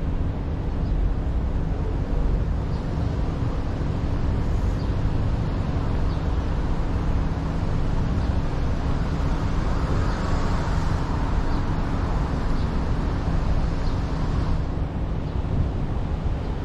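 Steady road and engine noise of a car being driven, a continuous low rumble with a hum. For about five seconds in the middle a brighter hiss rises over it, then drops back.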